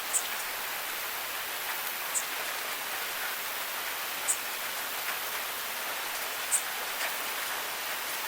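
Steady rain hiss, with a sharp high tick about every two seconds.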